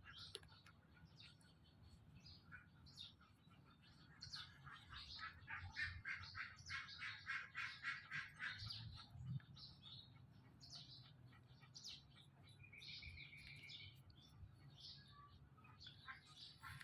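Puppies whimpering in faint, high squeaks, with a quick run of short squeaks in the middle and one longer steady whine later on.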